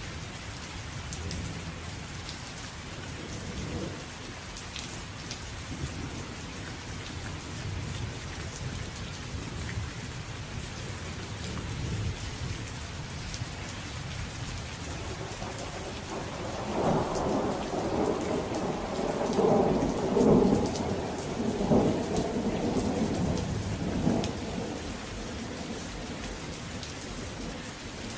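Steady rain falling, with low thunder rumbling underneath. A little past halfway a louder roll of thunder builds, peaking several times over about eight seconds before dying back into the rain.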